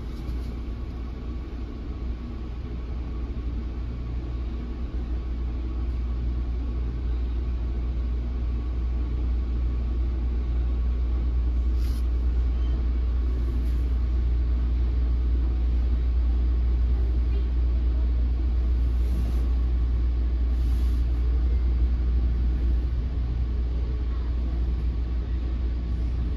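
Inside an NJ Transit Multilevel passenger coach under way: the steady low rumble of the car rolling on the rails, growing louder over the first several seconds, with a few faint clicks.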